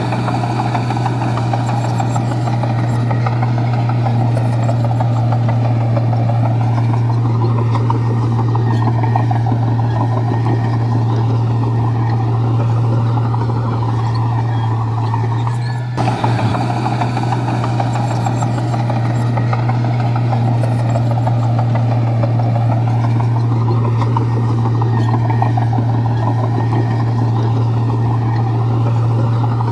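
Komatsu bulldozer's diesel engine running steadily with a constant low drone while the dozer works, with a brief break about halfway through.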